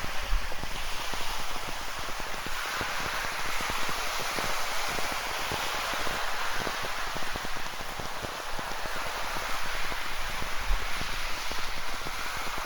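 Steady rain falling, with many drops hitting close by, over the continuous wash of ocean surf that swells and eases slowly.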